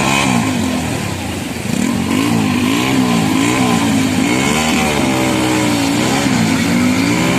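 An engine revving up and down over and over, its pitch rising and falling about once a second, with a faint steady whine above it.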